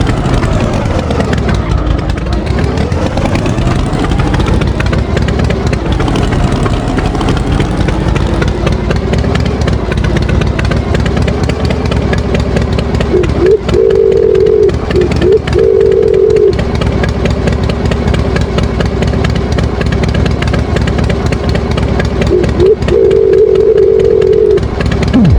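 Tractor engine running steadily, its pitch sweeping down and back up a couple of times in the first few seconds. A steady higher tone comes in over the engine twice, for about three seconds and then about two seconds, about halfway through and near the end.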